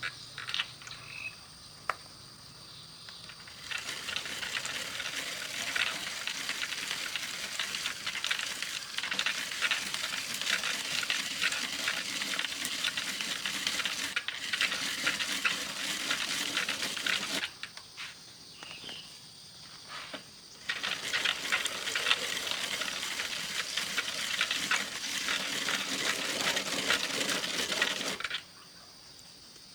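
Food frying and sizzling in hot oil in a pan, a dense crackle that comes in two long stretches, each starting and stopping abruptly.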